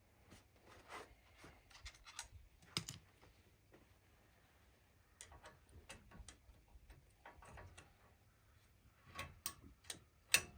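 Light, irregular metal clicks and taps of hand tools at a truck's front wheel hub, as a cotter pin is worked out of the spindle nut, in small clusters with a sharper click near the end.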